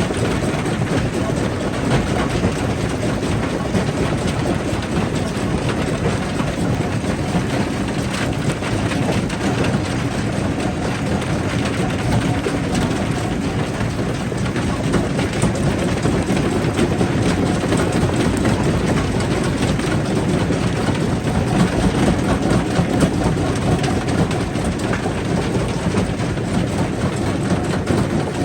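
Stone crusher running under load: a steady mechanical rumble with dense, continuous clattering and knocking of rock being crushed.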